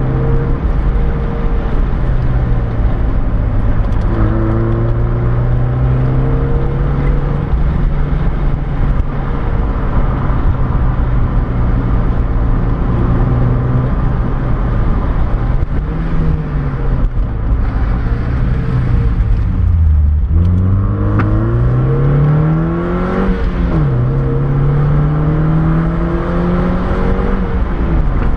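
Mazda MX-5's four-cylinder engine, heard from inside the car over steady road and wind noise. The engine note holds steady at first; about two-thirds of the way in the revs dip low, then climb sharply, fall briefly and climb again near the end.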